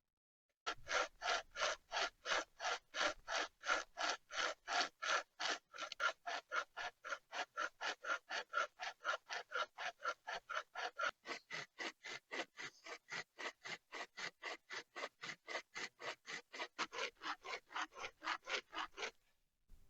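Footsteps crunching in snow: a steady, even run of crisp crunches, about four a second, that stops a little before the end.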